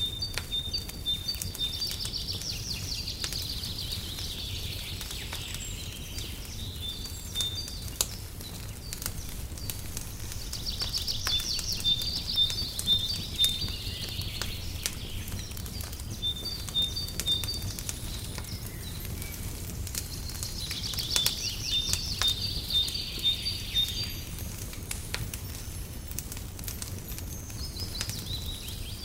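Fireplace fire crackling with scattered sharp pops over a low steady rumble, with a songbird singing a high phrase of repeated notes and a trill about every ten seconds.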